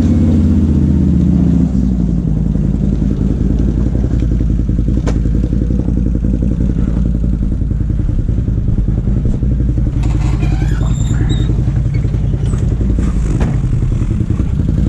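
Can-Am ATV engine running after a cold start. About two seconds in it drops from higher revs to a steady idle, warming up. There is a brief clatter about ten seconds in.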